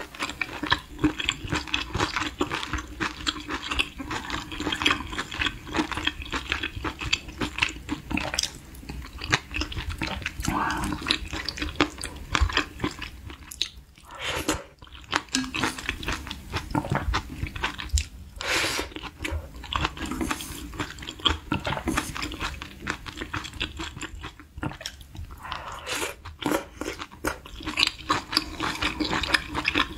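Close-miked chewing and mouth sounds of a person eating spicy beef-intestine hot pot: a continuous run of small wet clicks and smacks.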